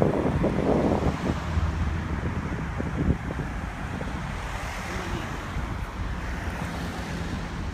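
Wind buffeting a phone microphone, heaviest for about the first second, over the steady hum of road traffic.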